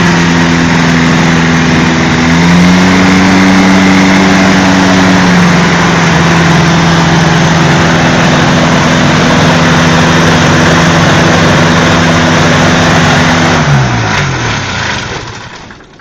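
Microlight's Rotax two-stroke engine and propeller running loud and steady, the pitch stepping up briefly a couple of seconds in and settling back. Near the end it is shut down, its pitch falling as it winds down to a stop.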